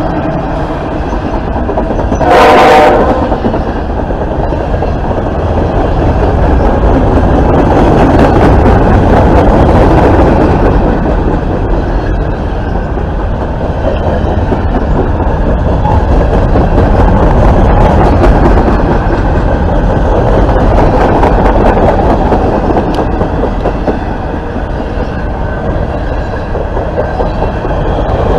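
Norfolk Southern freight train's open-top cars rolling past close by: a steady loud rumble with wheels clicking and clattering over the rails. About two and a half seconds in, a short loud horn blast cuts through.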